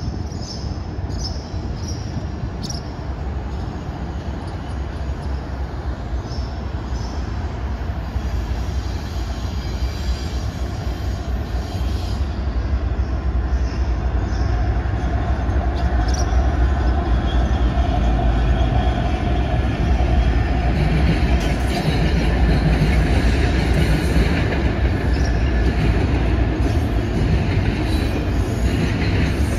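Freight train with two diesel locomotives hauling double-stack container cars rolling past: a steady low rumble of engines and wheels that grows louder through the first half, with high-pitched wheel squeal in the first few seconds.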